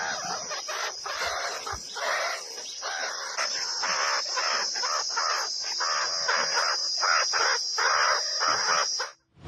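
Many birds calling at once in a dense, harsh chatter, over a steady high-pitched whine.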